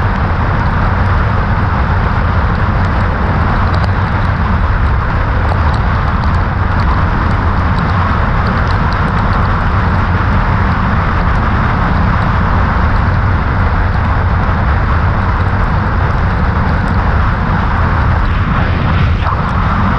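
Steady rush of riding wind over the helmet microphone, mixed with the Kawasaki Ninja 400's parallel-twin engine running at speed. Faint scattered ticks are heard throughout, and near the end there is a brief sweep up and back down in pitch.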